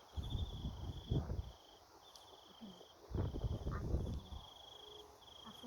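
Insects, likely crickets, trilling steadily in repeated pulsing phrases of about a second each. Two louder stretches of low rumble, near the start and about three seconds in, cover them briefly.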